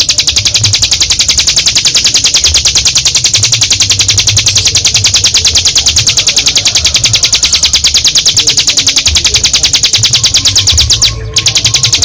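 Ciblek gunung (a prinia) singing a long, rapid, even trill of high notes, about ten a second, broken briefly about 11 seconds in.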